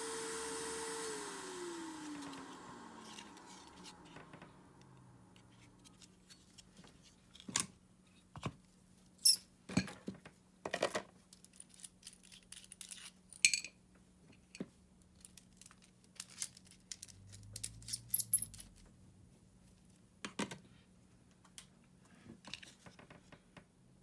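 Makita cordless screwdriver's motor running, then spinning down with a falling whine over about two seconds. Scattered clicks and knocks of small hard parts being handled follow.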